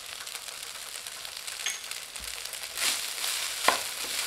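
Vegetable fried rice sizzling steadily in a nonstick pan, then a spatula stirring through it from about three seconds in, with a few sharp scrapes.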